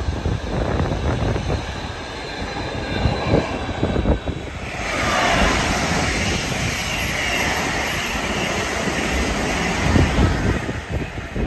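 Container freight train rumbling past on the far track, with low thumps of wind buffeting the microphone. About five seconds in, a high-speed passenger train sweeps past on the nearer track with a sudden, loud rush of wheels on rail and air, which eases off near the end.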